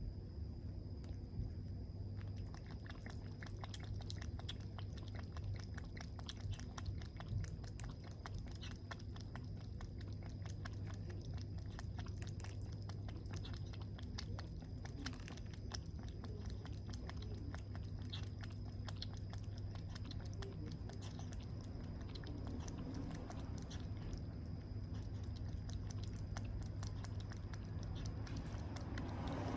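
A kitten eating: a dense run of rapid small clicks of chewing and licking that begins about two seconds in, over a steady low hum.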